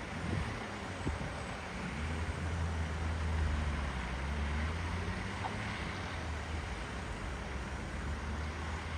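A vehicle on the move: a steady low engine hum with road and wind noise, the hum growing stronger about two seconds in.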